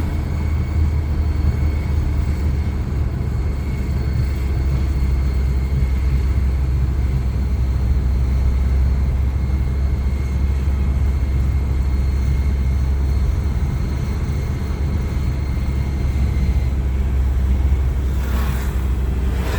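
Rickshaw engine running steadily: a low rumble with a thin, steady high whine over it that sounds like a jet turbine. A brief louder rush comes near the end.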